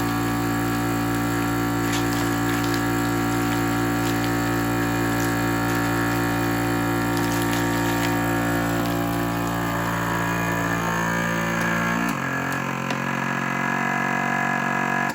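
Weston Pro vacuum sealer's pump running steadily as it draws the air out of the bag; its tone changes about twelve seconds in, and it cuts off abruptly at the end.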